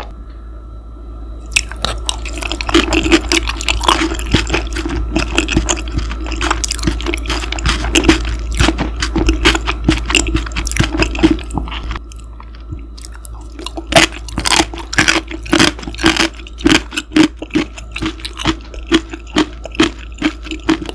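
Close-miked mouth chewing food, a dense run of wet smacks and crunches about two or three a second, easing off briefly twice. Under it runs a steady low machine hum with a faint steady whine: mechanical noise picked up in the recording.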